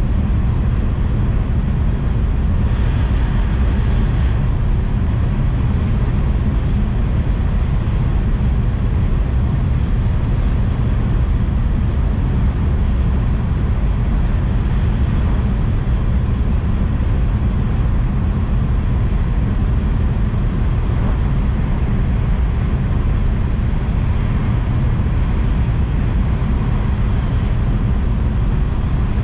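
Steady low rumble and hiss of a Tohoku Shinkansen bullet train running at speed, heard inside the passenger cabin, with a brief higher hiss about three seconds in.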